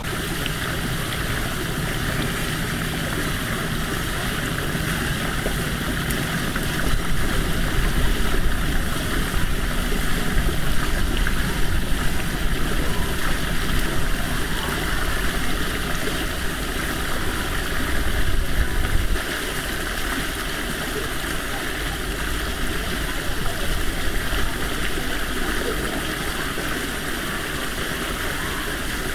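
Steady rushing of running water from a stream, with a low rumble underneath that grows louder for a stretch through the middle and drops back about 19 seconds in.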